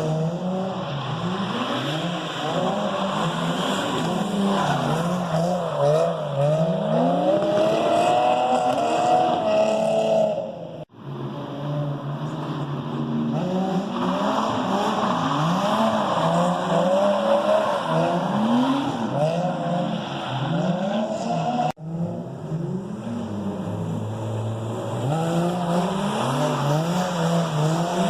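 Drift car's engine revving up and falling back over and over as the car slides, with tyre squeal. The sound breaks off abruptly twice.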